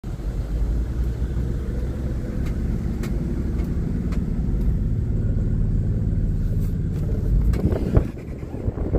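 Steady low rumble of a running vehicle engine, with a few faint clicks; the rumble breaks up into uneven noise near the end.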